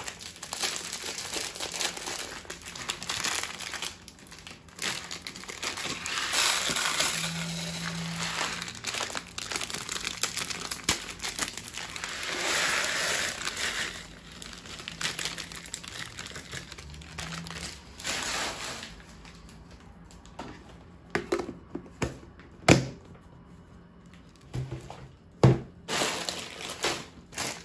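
Plastic food packets crinkling and rustling as they are handled and emptied into storage containers. Near the end the rustling gives way to a few sharp knocks and clicks of containers and lids being set down.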